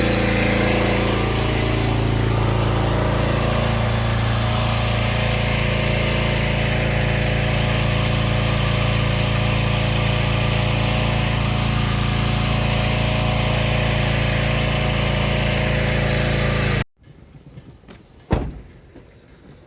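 Pressure washer's gas engine running steadily, with the hiss of water spraying, its pitch shifting slightly in the first couple of seconds. It cuts off abruptly near the end, followed by a single sharp click.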